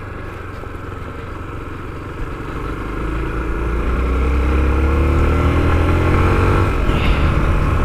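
Honda XR250L's single-cylinder four-stroke engine running under way, growing louder and rising steadily in pitch from about halfway through as the bike accelerates, with a break in the pitch near the end.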